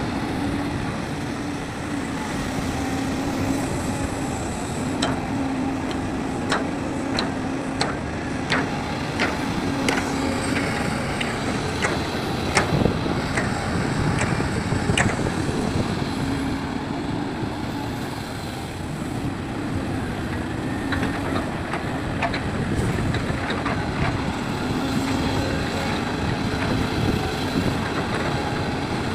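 Diesel engine of a large hydraulic excavator running steadily while it digs and loads soil, with a series of sharp metallic clanks and knocks in the first half.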